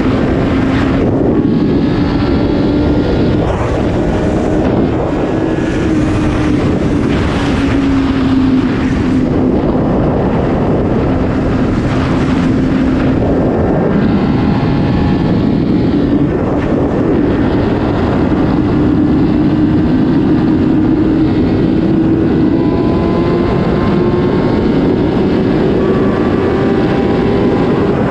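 Superbike engine with an Akrapovič exhaust running at a steady cruise, its note holding fairly even and climbing slowly in the last third, with wind buffeting the microphone.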